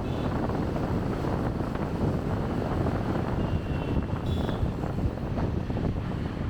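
Motorbike riding through city traffic: a steady rumble of engine and wind buffeting the chest-mounted camera's microphone. A brief high-pitched beep sounds about four seconds in.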